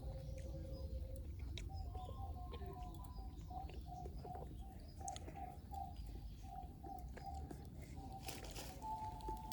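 Alto recorder ensemble playing a slow background tune: clean sustained notes, sometimes in two-part harmony, with a short run of detached notes in the middle. Underneath are a low rumble and a few faint clicks.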